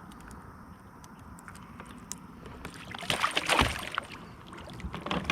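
Handling noises aboard a fishing kayak: scattered light clicks and knocks, then a louder rustling, sloshing burst about three seconds in and a shorter one near the end.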